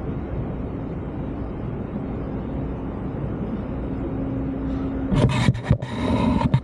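A steady low engine rumble. About five seconds in it gives way to a run of loud, sudden bursts of noise.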